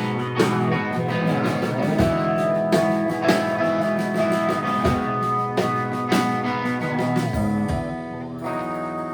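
Live band playing an instrumental passage with guitar and drum kit. The drums stop about seven and a half seconds in, leaving a held chord ringing and slowly fading.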